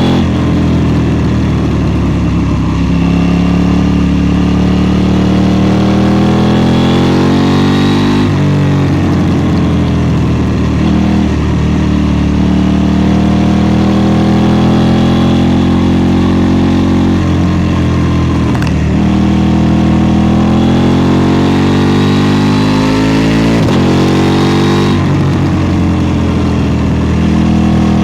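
KTM 790 Duke parallel-twin engine under hard acceleration. The revs climb steadily, then drop sharply about eight seconds in, again around nineteen seconds and near the end, and climb again after each drop.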